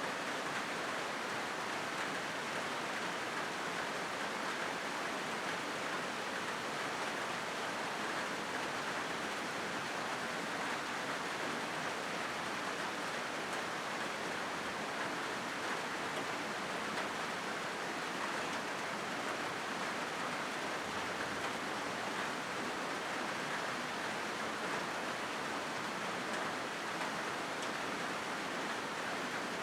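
Rain falling steadily on a corrugated zinc roof sheet, a dense even patter of drops with no letup.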